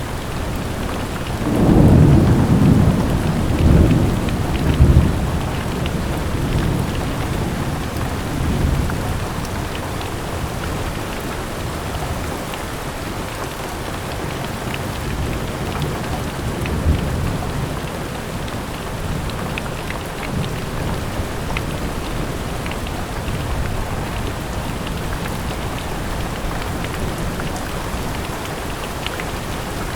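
Steady rain falling, with scattered patters of drops. A roll of thunder rumbles in about two seconds in and lasts a few seconds, and fainter low rumbles follow later.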